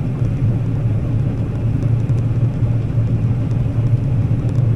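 Combine harvester running while cutting wheat: a steady low machine hum with no change in pace.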